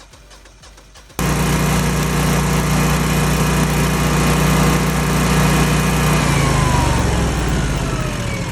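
Generac home standby generator's engine starting in manual mode: it comes in abruptly about a second in and runs steadily and loudly. A falling whine sounds over it near the end.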